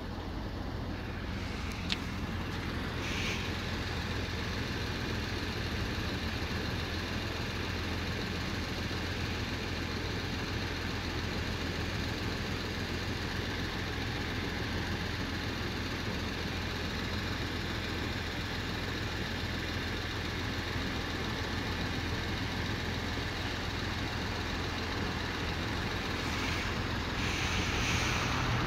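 Steady low rumble of background noise at a level crossing, with a single sharp click about two seconds in. Over the last few seconds the sound of an approaching high-speed train grows louder.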